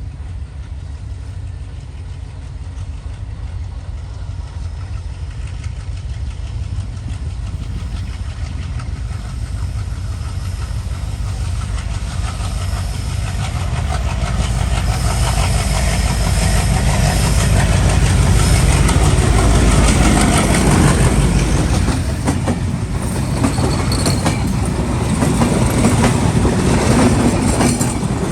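WDM-3D diesel-electric locomotive hauling a passenger train toward and past the listener, its low engine rumble growing steadily louder to a peak about two thirds of the way through. After that the coaches' wheels clatter rhythmically over the rail joints.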